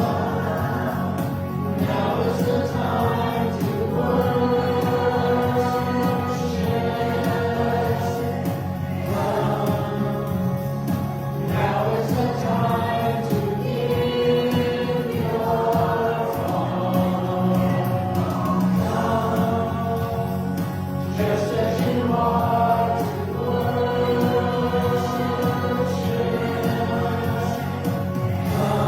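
Church choir singing, with long held notes that change every few seconds.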